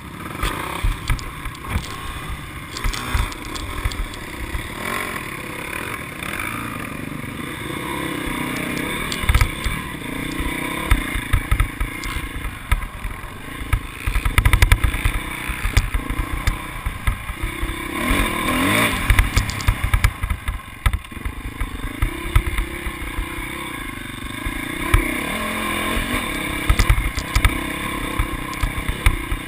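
Motocross motorcycle engines revving, the pitch rising and falling repeatedly, with low rumbling bumps throughout.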